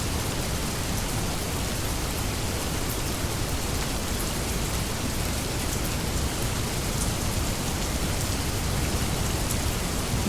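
Heavy rain falling steadily: a dense, even hiss with scattered sharp ticks of individual drops.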